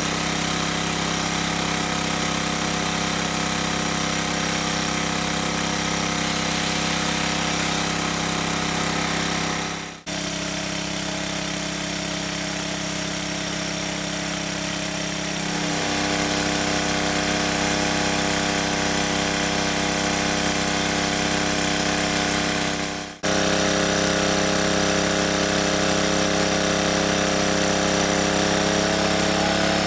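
A steady mechanical drone, like a running motor, made of several held tones. It cuts out briefly twice, about ten seconds and about twenty-three seconds in.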